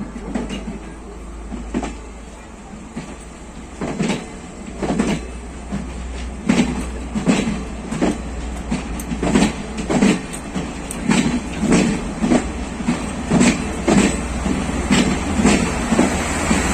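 Passenger train running on the rails: the wheels click-clack over rail joints above a steady low rumble. The clicks are few at first, then come regularly about one and a half times a second and grow louder.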